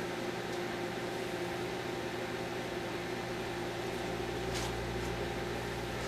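Microwave oven running just after being started, a steady hum with fan noise, while heating a tape-wrapped bar of Ivory soap. A faint click comes about four and a half seconds in.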